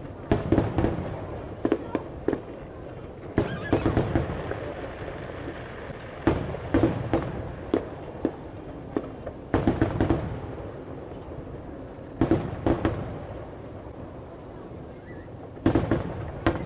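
Aerial firework shells bursting: clusters of sharp bangs, a group every two to three seconds, with a steady low background noise between the groups.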